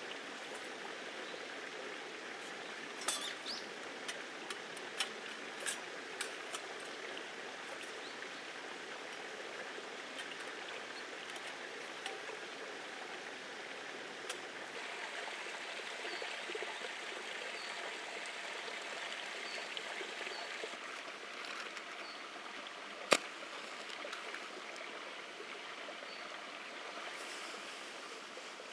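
Steady rushing noise like running water, with scattered light clicks in the first few seconds and one sharp knock about 23 seconds in.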